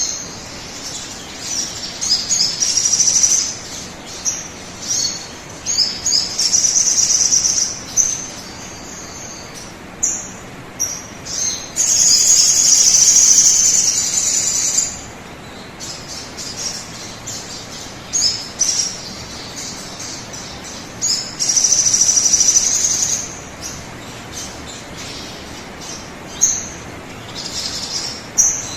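Sogon bird song from a lure recording: high-pitched chirping phrases coming in bursts, some short and some running about three seconds, over a steady hiss.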